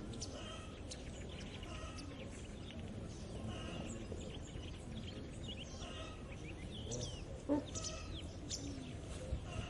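Several small birds chirping and twittering in quick short calls and rising and falling whistles over a steady low background rumble, with one brief louder call about three-quarters of the way through.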